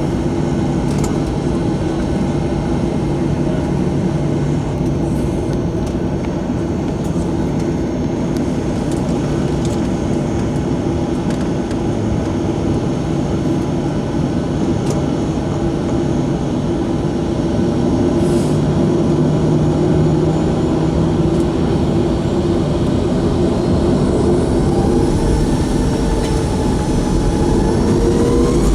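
Boeing 737-700's CFM56-7B turbofan engines running steadily during the climb after takeoff, heard from inside the passenger cabin. About 24 seconds in, the engines begin spooling up, their whine rising in pitch as thrust increases toward max power.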